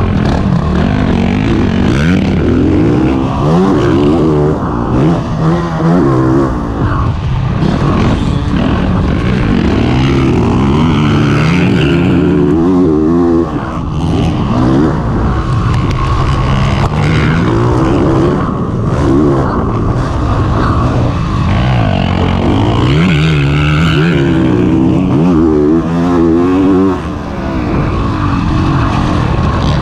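Honda CRF450RX dirt bike's single-cylinder four-stroke engine being ridden hard on a motocross track: the revs climb and drop over and over as the throttle is opened and closed through the gears, with two short dips in loudness.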